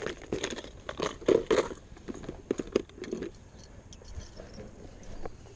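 Fishing tackle being rummaged through and handled: a quick run of clicks, knocks and crinkling for about three seconds, then quieter handling.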